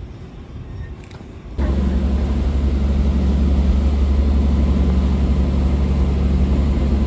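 Low background noise, then about a second and a half in a loud, steady, low engine drone starts abruptly: a harbour ferry's engines heard from on board.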